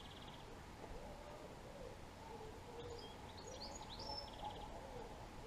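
Faint songbird song: a short phrase of high whistled notes ending in a brief buzzy trill about three seconds in, over steady outdoor background noise. A string of soft, low curving calls runs underneath.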